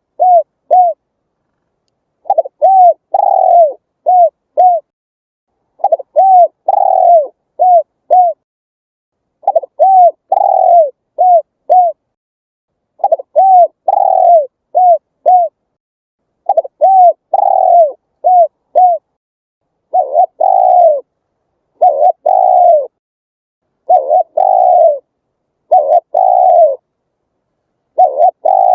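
Spotted dove cooing in repeated phrases of four or five coos, a new phrase about every three and a half seconds; in the last third the phrases come shorter, about every two seconds.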